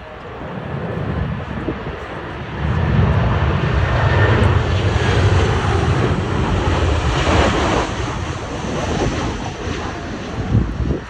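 Jet airliner's engines running loud as it passes by, swelling about two and a half seconds in and staying loud for several seconds, with a brighter hiss near the middle as it goes past.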